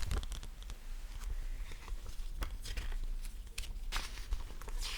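ASMR sticky sounds: something tacky being pressed and peeled apart, giving irregular crackles with a few sharper pops.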